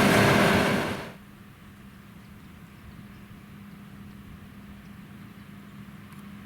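John Deere X9 1100 combine harvester running loud, then dropping away sharply about a second in to a faint, steady low engine hum.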